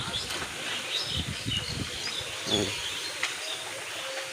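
Wind buffeting the microphone in gusts, with small birds chirping in short calls now and then.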